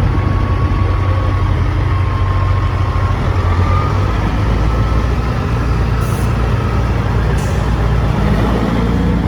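A heavy truck's diesel engine running with a steady low rumble. Two short, high hisses come about six and seven and a half seconds in.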